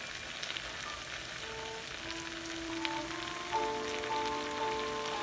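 Diced potatoes and onions sizzling in oil in a frying pan, a steady hiss with scattered fine crackles. Background music with held notes comes in about halfway through.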